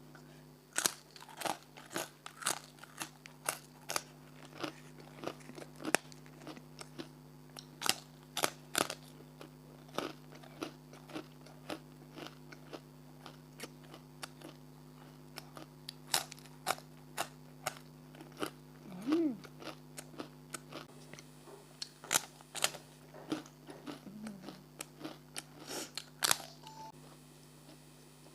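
Close-miked crunching and chewing of a crunchy snack: a run of sharp, irregular crunches that thins out in the middle and picks up again, over a steady low hum.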